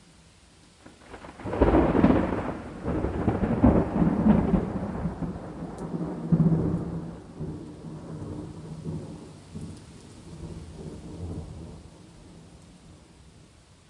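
A thunderclap over steady rain: a sudden loud crack about a second and a half in, a few more loud peals over the next several seconds, then a rumble that fades away, leaving the rain hiss.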